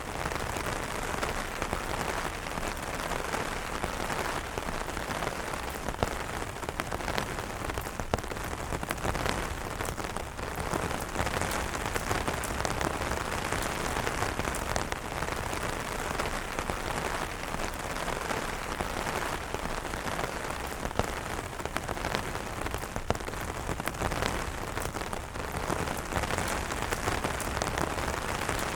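Steady rain falling on umbrellas, a continuous hiss with scattered sharper drop taps.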